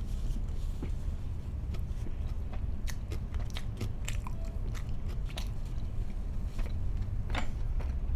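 Close-miked eating sounds: a person chewing, with irregular crisp crunches and wet mouth clicks, over a steady low hum.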